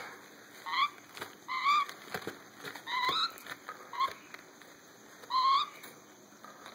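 Baby Meyer's parrot chicks giving short rising chirps, five in all, about a second apart, with light tapping and scratching between them.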